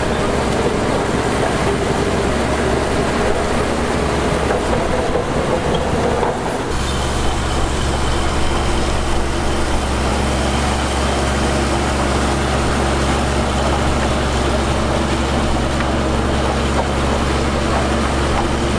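Heavy diesel earthmoving machinery running steadily under load. About seven seconds in, the engine sound changes abruptly to a different steady note.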